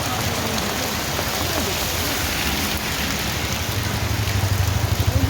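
Steady heavy rain falling. About two-thirds of the way in, a low throbbing rumble builds up beneath it and grows louder toward the end.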